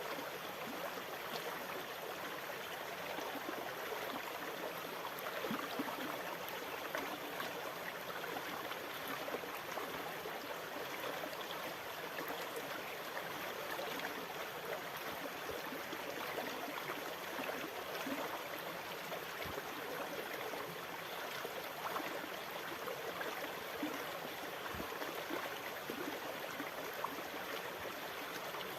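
Running water, a steady rush with fine trickling and gurgling detail and no rise and fall of breaking waves.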